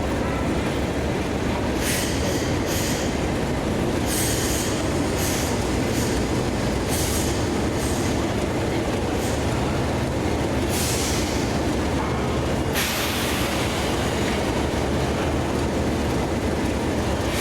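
A train running along the track with a steady heavy rumble and repeated short, high-pitched wheel squeals.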